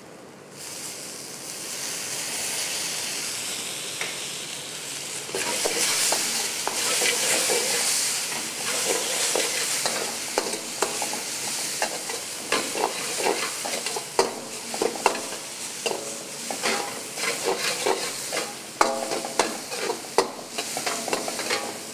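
Chopped tomatoes sizzling in hot oil with onions in a kadai, the frying hiss starting up about half a second in and at its loudest a few seconds later. From about halfway, a steel ladle scrapes and knocks against the pan again and again as the mix is stirred.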